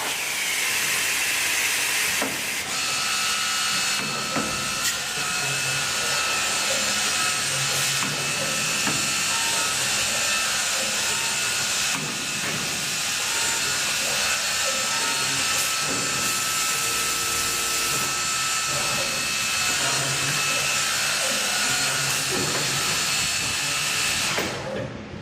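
Maggi GT800 CNC multi-spindle boring machine running, a steady whine of its spindle motors over a hiss, with a few short clicks. The sound drops away near the end.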